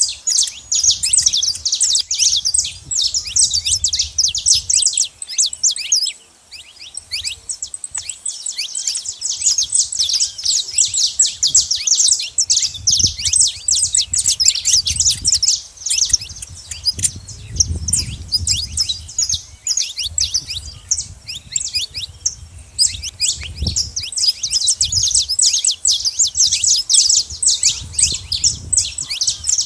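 Saffron finches chirping busily: a dense run of rapid, high, overlapping calls from several birds, with a brief lull about six seconds in.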